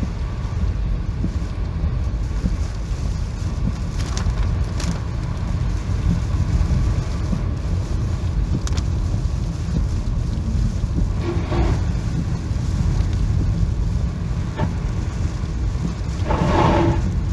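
Wind buffeting the microphone in a steady low rumble during a typhoon, with a brief pitched sound about 11 seconds in and a louder one near the end.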